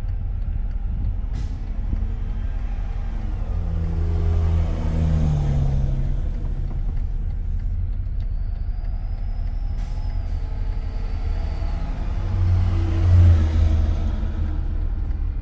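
Car driving with a window open: a steady low rumble of road and wind noise, with the engine sound of passing vehicles swelling and dropping in pitch twice, and a thin high squeal near the middle.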